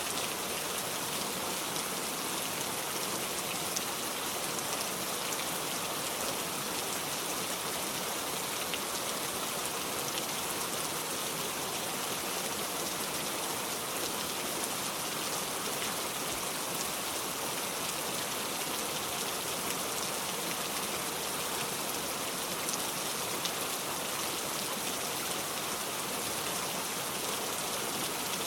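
Steady rain falling, an even hiss dotted with faint drop ticks.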